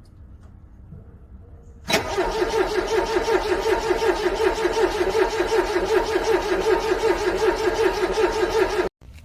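Car engine being cranked over by its starter in freezing cold, struggling to start: a fast, even, rhythmic churning that starts suddenly about two seconds in and cuts off abruptly near the end.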